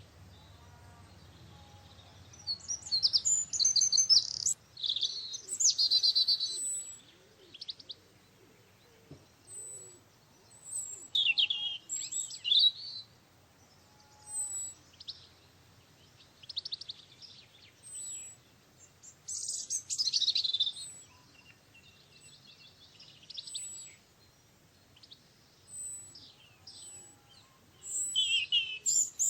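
Songbird singing in short warbling phrases of one to two seconds, repeated every few seconds with pauses between, and thin high notes in the gaps.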